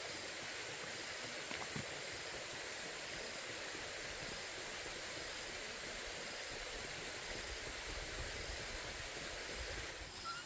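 Steady outdoor background noise: an even rushing hiss with a thin, high steady whine over it, and some low rumbling near the end.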